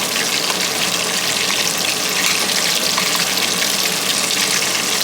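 Marinated chicken wings frying in hot oil: a steady sizzle with fine crackling.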